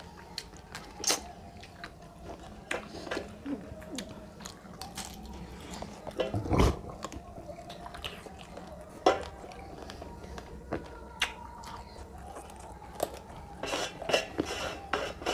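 Close-up eating sounds of rice and fish curry eaten by hand: wet chewing, lip smacks and short clicks scattered throughout, with a louder thump about six and a half seconds in and a flurry of clicks near the end as fingers gather food from the metal plate.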